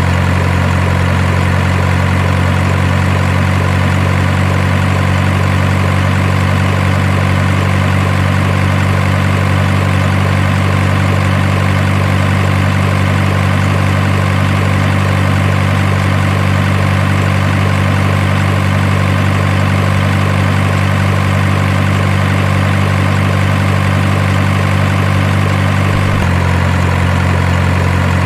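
Steady truck-engine idle sound for a miniature RC dump truck, a low droning hum at an even level that shifts slightly near the end.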